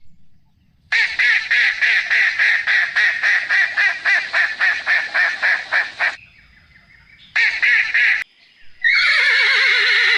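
Waterfowl calling in a rapid run of honking quacks, about five a second, then a shorter run; near the end a horse starts a long whinny that wavers and falls in pitch.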